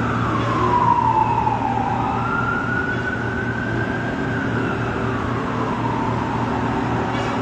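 A siren wailing in slow sweeps, its pitch falling, rising and falling again over a few seconds, above a steady low hum.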